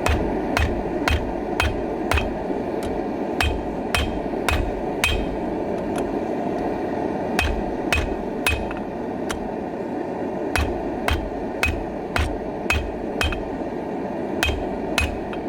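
Hammer striking a heated horseshoe on an anvil, about two blows a second with a short pause about two-thirds of the way through, straightening the shoe. A loud forge runs steadily underneath.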